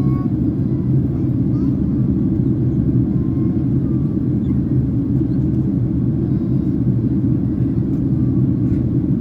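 Steady low rumble of cabin noise inside a Boeing 767-300ER in flight: engine and airflow noise heard from a passenger seat.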